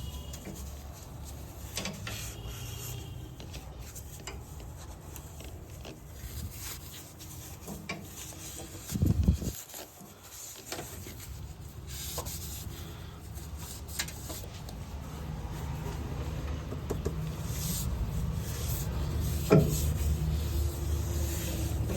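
Rubbing and scraping as plastic and paper rat-nest debris is pulled out of a car's cowl water-collection chamber by hand, with scattered light clicks and two dull knocks, one about nine seconds in and one near the end.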